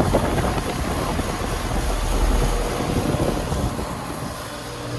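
Carrier 38CKW 2.5-ton central air conditioner condenser running steadily: the scroll compressor hums under the rush of the condenser fan, with an uneven low rumble.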